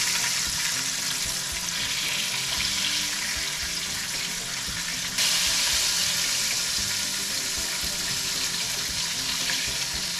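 Breaded venison steaks frying in oil in a skillet over medium-high heat: a steady sizzle that jumps louder about five seconds in.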